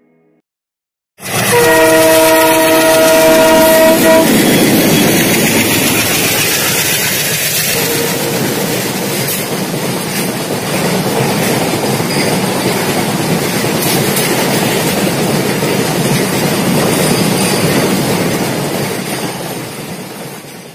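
A train horn sounds for about three seconds, starting suddenly about a second in. A train then runs past on the rails, a steady loud rumble that fades near the end.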